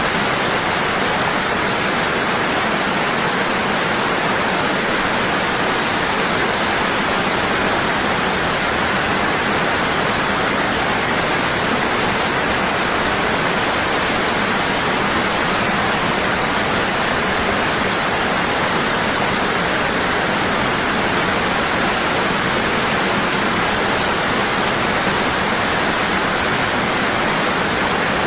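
Waterfall, water falling hard and constantly in a steady, unbroken rush.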